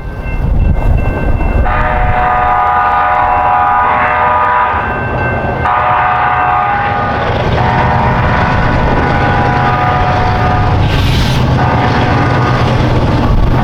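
Diesel freight locomotive horn sounding a series of long blasts with short breaks, over the steady rumble of the passing train.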